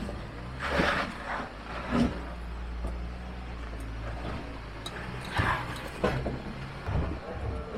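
Jeep engine running low and steady while crawling a rock obstacle, with a few short knocks and crunches.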